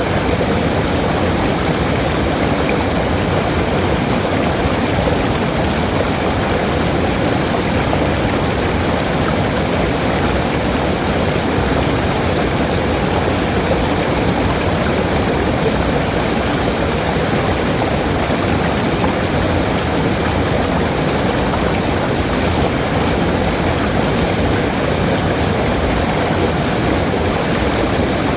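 Waterfall: a steady, loud rush of falling water with no changes.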